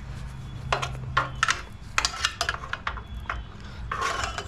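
Clinks and rattles of metal hand tools on small engine parts while a small-engine carburetor is being taken apart: irregular clusters of short sharp clicks, with a faint low hum under the first second and a half.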